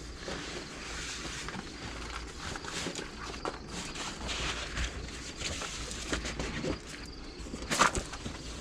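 Rustling and handling noises with small clicks and knocks, and one sharp snap or knock near the end.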